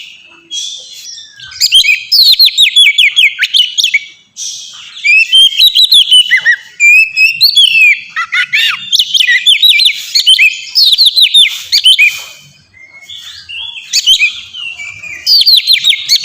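Oriental magpie-robin (kacer) singing loudly in clear, open phrases. Each phrase is a quick run of whistled notes sweeping up and down, with short pauses between phrases.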